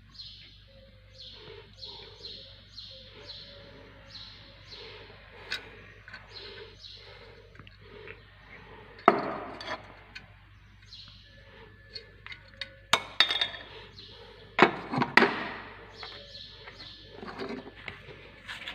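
A bird chirps in a quick, repeated series, about twice a second, for the first half. Later come sharp metallic clinks and knocks from rear drum-brake parts being handled: one clink about halfway through and a cluster near the end, which are the loudest sounds.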